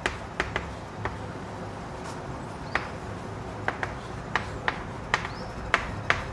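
Chalk writing on a board: about a dozen short, sharp taps at irregular intervals over a steady low room hum.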